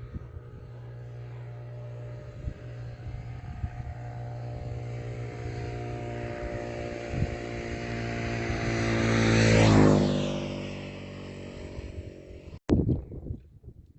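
A motor vehicle approaching along the road and passing close by. Engine and tyre noise build steadily to a peak about ten seconds in, then the pitch drops as it goes past. Near the end the sound cuts off abruptly, followed by a couple of knocks.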